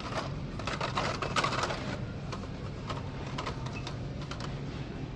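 Irregular light clicks and plastic rattles from blister-packed die-cast toy cars being handled, over a steady low store hum.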